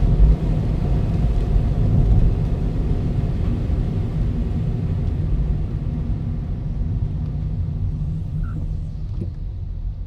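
Toyota Ractis on the move: a steady low engine and road rumble that slowly gets quieter over the last few seconds.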